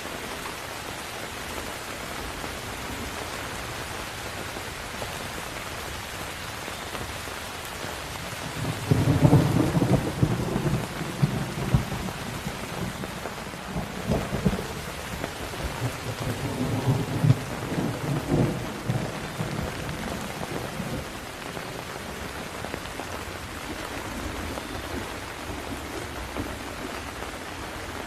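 Steady heavy rain falling, with rolling thunder about a third of the way in that rumbles on in several low peals for close to ten seconds before fading back to the rain.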